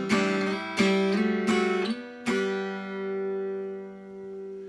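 Acoustic guitar strummed in a few quick chord strokes, then a last chord struck about two seconds in and left to ring out and fade.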